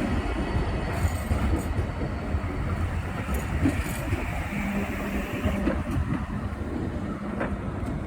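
BN coast tram running at low speed, a steady low rumble with a hum that comes in around the middle and fades near the end.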